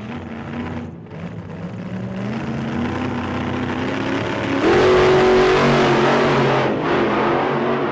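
Car engine revving up, its pitch climbing over a few seconds, then held high and at its loudest for about two seconds before easing off near the end.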